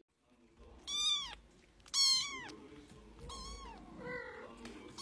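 Cat meowing four times, each meow rising and then falling in pitch; the second meow is the loudest and the last is lower.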